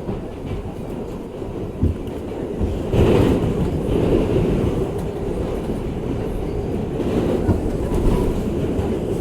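R62A subway train running at speed, a steady rumble with clicks and knocks from the wheels over rail joints; the rumble grows louder about three seconds in.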